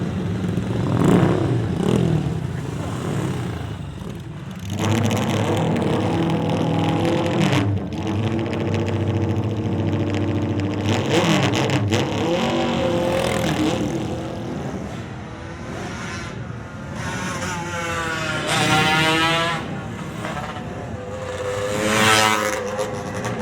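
Vintage motorcycle engines running and passing one after another, some revving, with rising and falling pitch sweeps as bikes go by close.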